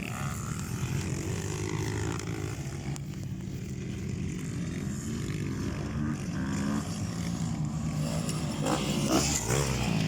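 Several motocross dirt bikes' engines running, their revs rising and falling.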